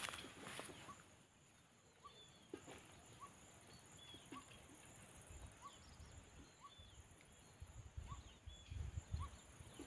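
Faint bird calls in open countryside: a short rising chirp repeated about once a second, with a few higher notes in between. Bursts of low rumble come in during the second half.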